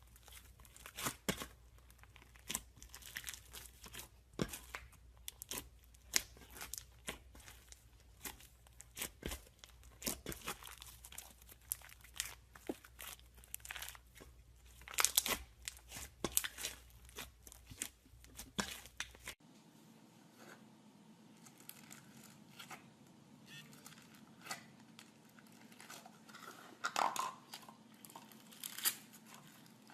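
Slime being squeezed and worked by hand, giving a run of irregular crackling and popping clicks. The background changes abruptly about two-thirds of the way through, where one clip cuts to another.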